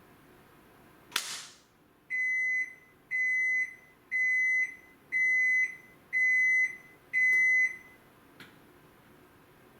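AQUA washing machine's electronic beeper sounding six even beeps, one a second, the signal that the wash cycle has finished. A sharp click comes just before the beeps, and a small tick after them.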